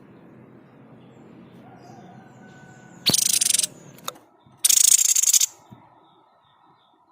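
Sniper bird (tepus dada putih) giving its harsh, rasping 'shot' call twice, each burst loud and about half a second to a second long, about three and four and a half seconds in.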